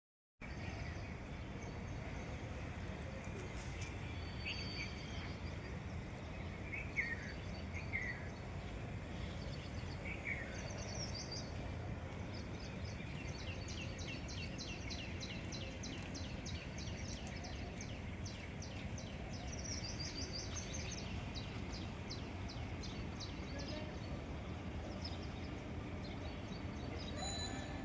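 Outdoor ambience of birds calling: a few short falling chirps early on, then a long run of rapid, evenly repeated high chips, over a steady low rumble.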